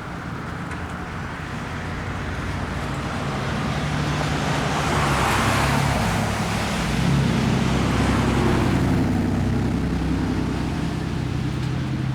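A car passing on a wet street: the hiss of tyres on the wet road swells to a peak about halfway through and then fades, over a low engine hum that carries on after it.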